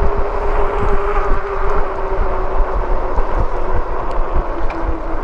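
Riding noise of a Lectric e-bike on the move: wind rumbling on the chest-mounted microphone and tyre noise, with a steady motor whine that drops slightly in pitch over the few seconds.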